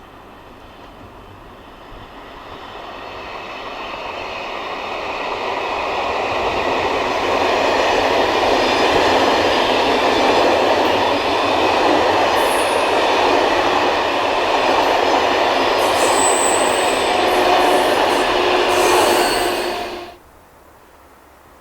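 Passenger train passing at low speed, growing louder over several seconds and then running steady and loud, with brief high wheel squeals in the last few seconds before the sound cuts off suddenly.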